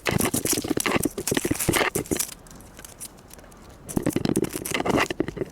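Adelie penguins calling, a rapid pulsing chatter in two bouts with a quieter gap between them.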